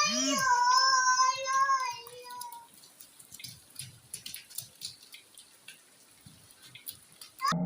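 A child's drawn-out, wavering shout lasting about two seconds, then water splashing and dripping with scattered sharp little taps, as from rain falling around children playing in it.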